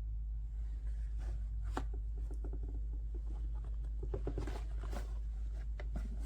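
Light handling noise: scattered soft clicks and rustles, busiest in the second half, over a steady low hum.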